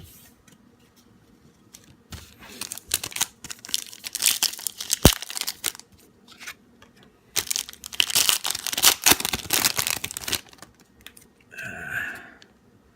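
Sports trading-card pack wrapper being torn open and crinkled by hand, in two long spells of tearing and crackling, with a sharp click about five seconds in.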